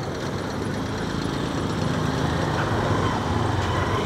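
Hero Hunk motorcycle's single-cylinder engine running steadily as the bike rides along, getting slightly louder through the stretch.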